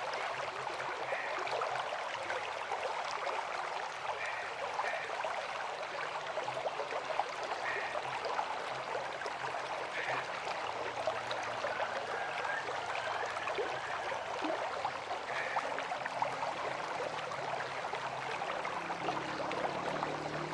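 River water flowing with a steady, even rushing, with a few faint short high notes here and there.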